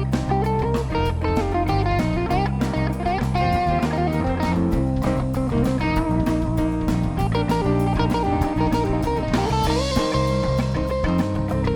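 Live rock band playing an instrumental passage, led by electric guitar over bass and a drum kit keeping a steady beat. A held guitar note slides up about three-quarters of the way through.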